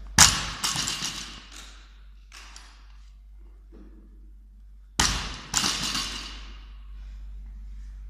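Barbell loaded with plates dropped to the floor twice, about five seconds apart. Each time it lands with a loud thud, bounces once and rattles briefly as it settles.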